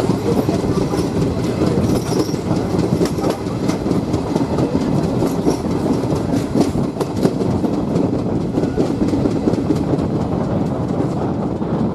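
Passenger train running along the track, with a steady rumble from the coach and wheels clicking and knocking irregularly over the rail joints.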